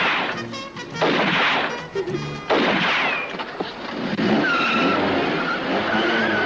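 Film soundtrack: music with three loud sudden hits in the first three seconds, then car tyres squealing over a car chase from about four seconds in.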